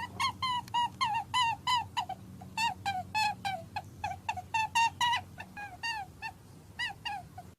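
Puppy whimpering and yelping in a rapid series of short, high calls, about three a second, each dropping in pitch at its end.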